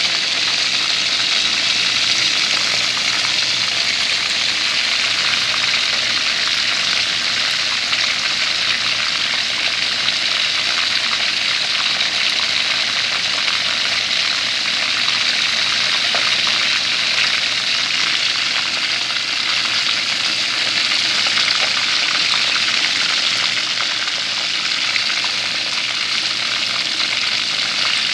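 Chicken wings frying in hot oil in a covered aluminium pan over high heat: a steady sizzle.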